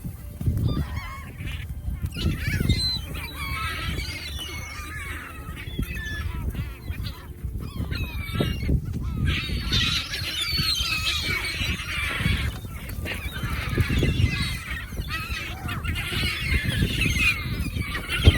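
A flock of hungry birds calling over food, many overlapping calls at once, over a steady low rumble.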